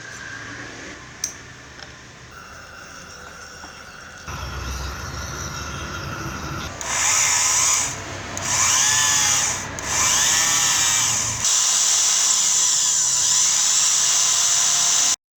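Electric drill motor running with a high-pitched whine, switched on in several short runs with its pitch sweeping up and down as it speeds up and slows. It then runs steadily for a few seconds and cuts off suddenly near the end.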